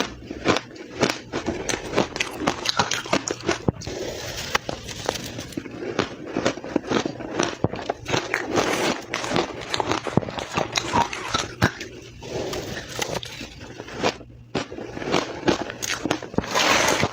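Soft, powdery crushed ice being chewed fast: a dense run of crunches and crackles, with a short pause near the end.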